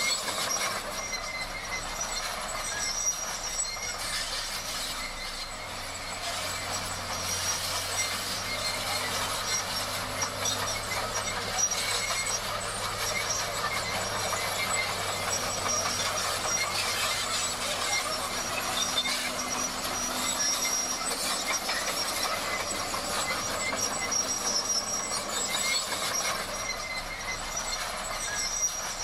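Komatsu D58 crawler bulldozer at work, its steel tracks and undercarriage making a continuous metallic clatter with high, steady squealing tones over the low hum of the diesel engine.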